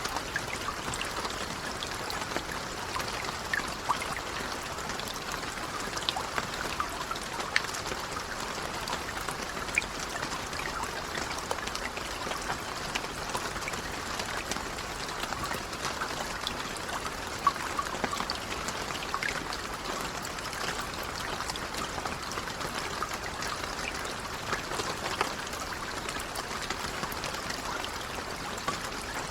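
Steady, gentle rain falling, a continuous patter with scattered individual drops ticking out above it.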